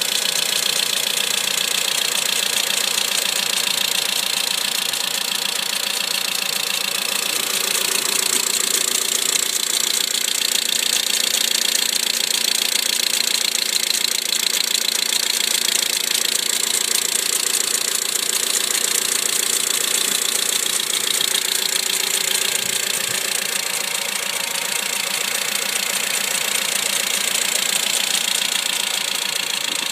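2008 Mitsubishi Lancer engine running steadily with a rapid clicking tick on the passenger side, sounding a little like a diesel. The ticking showed up after extreme cold (−35 °C) and, per the owner, goes away once it is around 3 °C.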